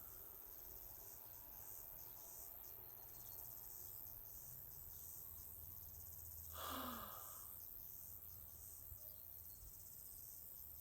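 Crickets chirping faintly and steadily in a high, rapidly pulsing trill, with one short breathy sigh, falling in pitch, about two-thirds of the way through.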